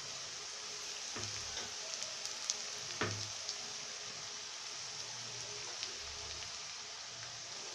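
Chopped onion and garlic frying in hot mustard oil in a karahi: a steady, even sizzle, with two soft knocks about one and three seconds in as chopped ginger goes in and the mix is stirred.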